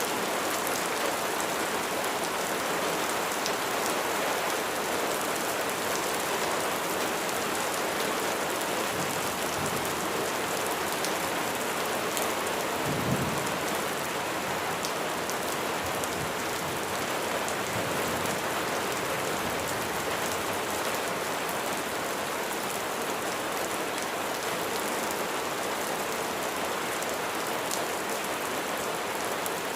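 Steady rain falling and pattering on a surface, with a brief low rumble about halfway through.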